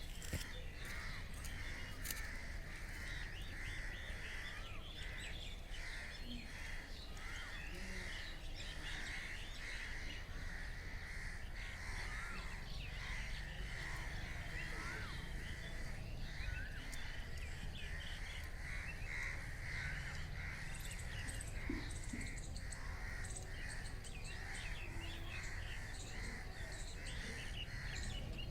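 Many birds calling and chirping together over a steady low background rumble, with a pulsing chorus of calls.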